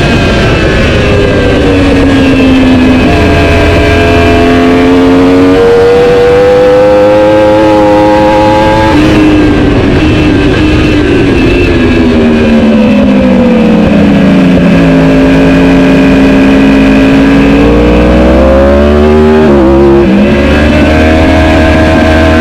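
Superbike engine at race pace, its pitch climbing and falling as it accelerates and shifts gear. The pitch breaks off sharply about nine seconds in and again near the end.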